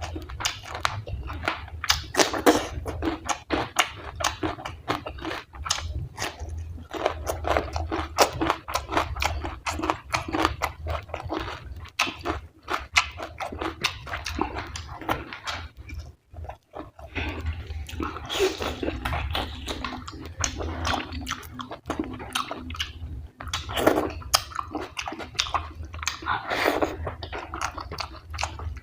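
Close-miked chewing of a mouthful of fatty mutton curry and rice: a dense run of wet, clicky mouth noises, with a short pause a little past halfway.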